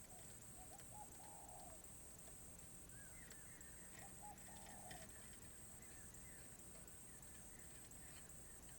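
Spotted dove cooing faintly: two short phrases about three seconds apart, each a few quick notes ending in a longer held coo.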